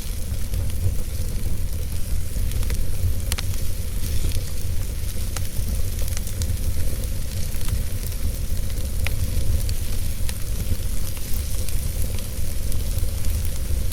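Wood fire burning in a fireplace: a steady low rumble under a hiss, with scattered sharp crackles and pops. The clearest pops come about three seconds in and about nine seconds in.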